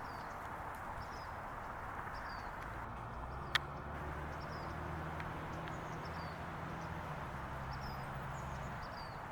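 Outdoor background with faint, short, high bird chirps repeating about once a second, one sharp click about three and a half seconds in, and a low hum through the middle.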